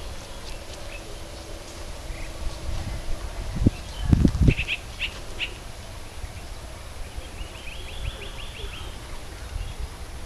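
Birds calling in the trees: a few short high chirps about halfway through and a quick run of repeated notes near the end, over steady outdoor background noise. A few low thumps just before the chirps are the loudest sound.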